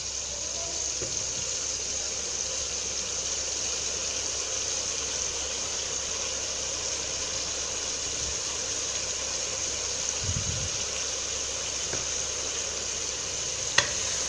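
Garlic and green chilli paste frying in hot ghee, a steady sizzling hiss while it is stirred, with one sharp knock near the end.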